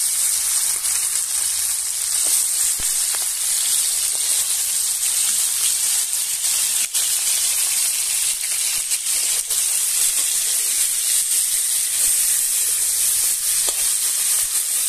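Crab pieces frying in hot mustard oil in a kadai: a loud, steady sizzle with a few scattered pops.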